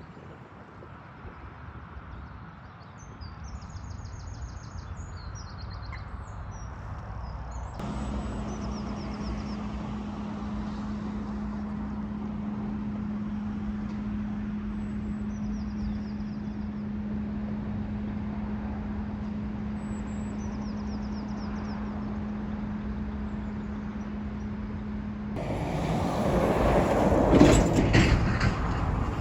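Road traffic: a steady engine hum under the noise of passing vehicles, with small birds chirping high above it. Near the end a louder vehicle passes close by, with a few sharp knocks.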